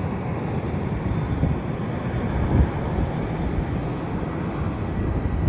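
Wind buffeting the microphone over a steady low rumble, with stronger gusts about two and a half seconds in and near the end.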